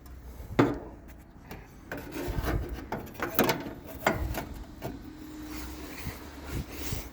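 Irregular scraping, rubbing and knocking as an air conditioner unit is handled and shifted into place, with a faint low hum underneath.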